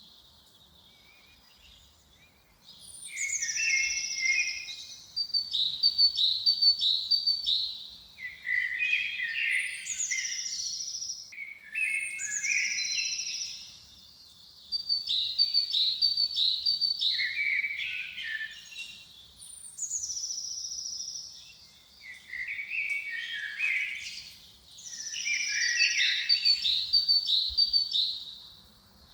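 A songbird singing the same short, high phrase over and over every few seconds, each starting with a downward-gliding note and breaking into a quick run of notes, after a quiet first couple of seconds.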